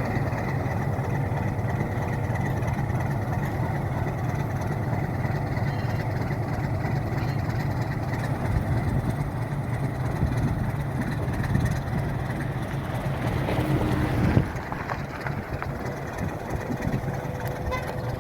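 Alco RS8 diesel locomotive engine running with a steady low drone, a few louder knocks in the second half, then a little quieter about fourteen seconds in.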